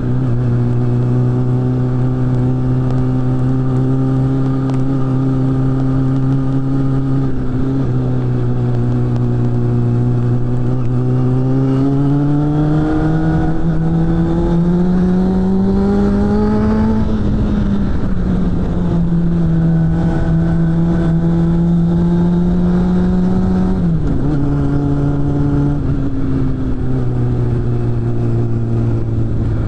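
Suzuki GSF600 Bandit's inline-four engine breathing through a BOS aftermarket exhaust while riding. The engine holds a steady note at first, then rises in pitch for several seconds under acceleration about halfway through. It then drops suddenly at a gear change and steps lower twice more near the end.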